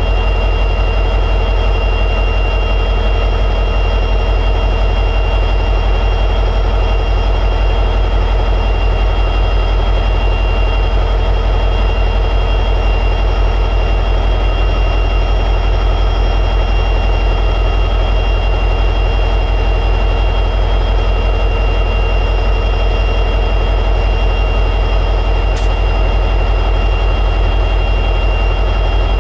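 EMD 710G3B two-stroke diesel prime mover of an SD60E locomotive running steadily at high idle: a deep, even drone with a faint steady whine above it.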